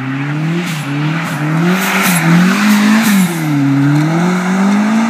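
Turbocharged Mazda MX-5 four-cylinder engine revving up and down over and over as the car drifts, with tyre squeal from the slide, loudest about two seconds in.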